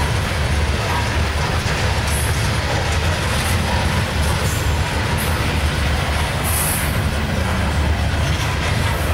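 Coal hoppers of a long freight train rolling past close by: a steady rumble of steel wheels on the rails, with a few brief high squeals from the wheels.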